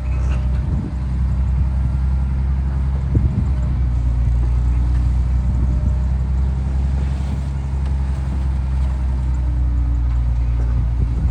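Shantui DH17C2 bulldozer's diesel engine running steadily under load, a deep, even drone.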